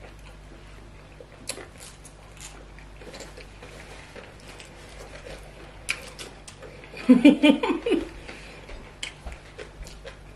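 People chewing food at close range, with scattered small wet clicks and mouth noises. A short burst of voice, a few tenths of a second long, comes about seven seconds in.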